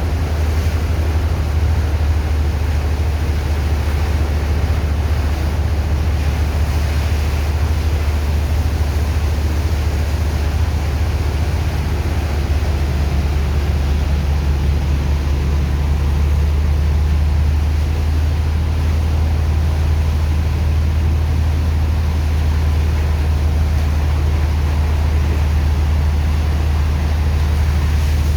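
Sand dredger's engine and pump running steadily: a loud, deep, unbroken hum under a rushing, water-like hiss, as the pump moves sand and water.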